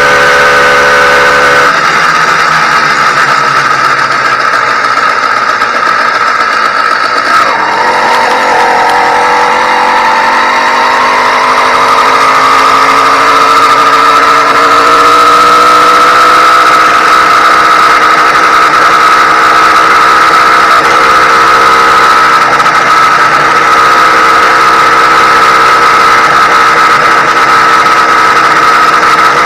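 Ported YD100 two-stroke bicycle engine running under way on a motorized bike during its break-in. The note drops about two seconds in, dips again near eight seconds, then climbs slowly as the bike picks up speed and holds steady for the second half.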